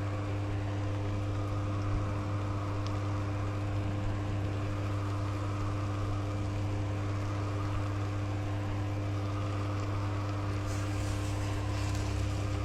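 Steady hum of an electric fan motor running, with a low drone and a few steady tones held throughout.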